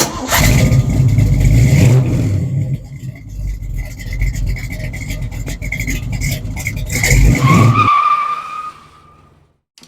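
A car engine revving hard, loudest in the first two seconds and again about seven seconds in. A high squeal rises near the end and fades out with the engine.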